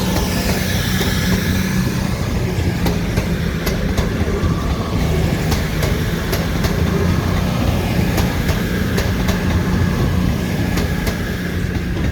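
A train running past on the track: a steady rumble with a low hum and sharp clicks of wheels passing over rail joints.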